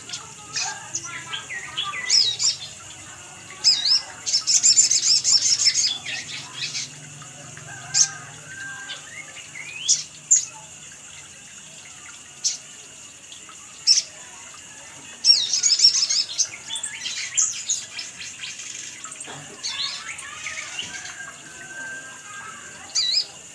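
Sogon (sogok ontong) sunbird calling: a string of sharp, high chirps and quick twittering phrases, with two denser bursts of twittering near a quarter of the way in and again past the middle. It is a lure recording meant to prompt captive birds to call.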